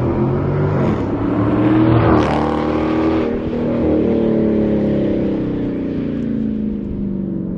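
Dodge Charger Scat Pack's 392 HEMI V8 through an MBRP 3-inch race catback exhaust with no mufflers or resonators. The exhaust note climbs in pitch for about two seconds, then eases off and drops slowly.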